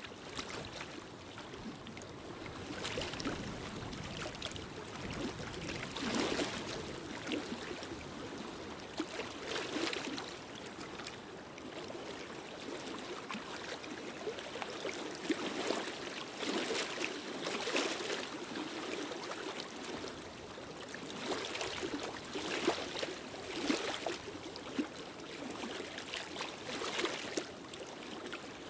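Wood fire crackling in a fireplace: a steady rushing hiss with scattered crackles and pops, swelling and easing every few seconds.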